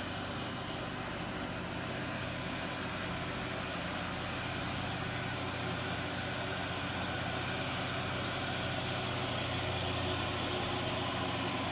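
Heavy diesel engine running steadily, growing slightly louder near the end.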